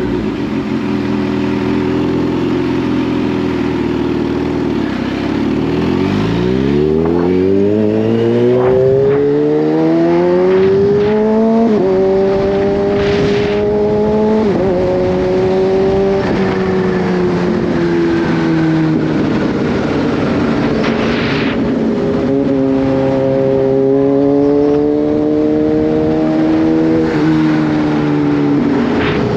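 Kawasaki Z H2's supercharged inline-four engine under way: steady revs, then a long rise in pitch for about five seconds as it accelerates, followed by drops in pitch as it shifts up, settling into steady cruising revs. Constant wind and road noise runs underneath.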